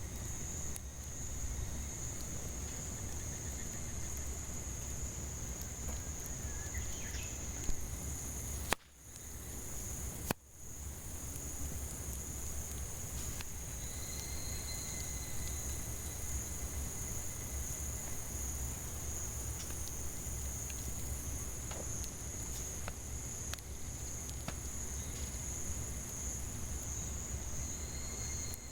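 Cicadas keep up a steady high buzz over a wood campfire, with scattered sharp crackling pops from the burning firewood and a low steady rumble. The sound drops out briefly twice, about nine and ten and a half seconds in.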